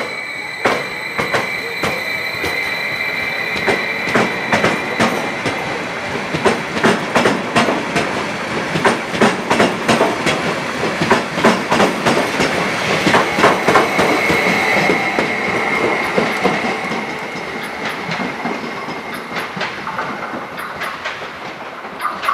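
Stadler FLIRT electric multiple unit pulling out and running past close by, its wheels clacking over rail joints and points in a quickening series of clicks, with a high steady whine over them. The sound fades over the last few seconds as the train draws away.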